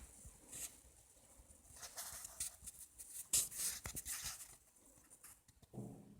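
Wood fire crackling and hissing in a stove-fireplace: irregular sharp snaps and short hisses, thickest in the middle, then a brief low pitched sound near the end.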